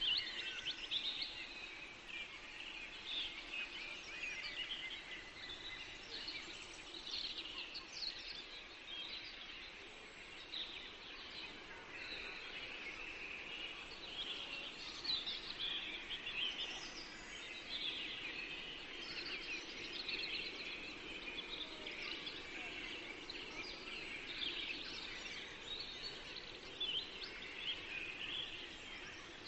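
Several songbirds singing and chirping continuously in a forest chorus, with many overlapping short calls over a steady low background hum.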